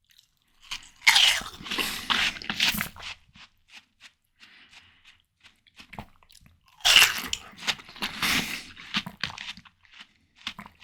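Close-miked bites into juicy watermelon flesh, crunching and wet chewing. Two big crunchy bites, about a second in and again near seven seconds, each followed by a couple of seconds of chewing, with quieter mouth sounds between.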